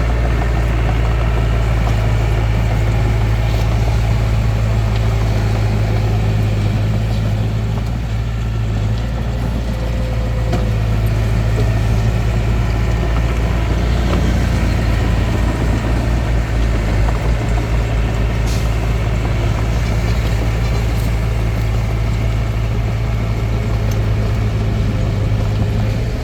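Diesel engine of a Hitachi DX45M bulldozer running steadily at working speed with a deep, even drone, dipping briefly about eight seconds in.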